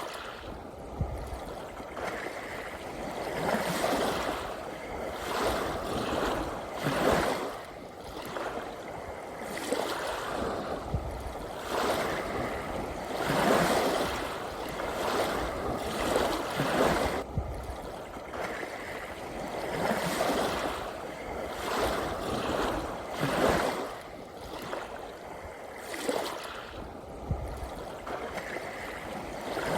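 Ocean waves washing ashore, rising and falling in repeated swells every few seconds.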